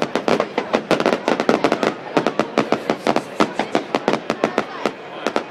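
Fireworks going off in a rapid, irregular run of sharp cracks and pops, several a second, thinning out near the end.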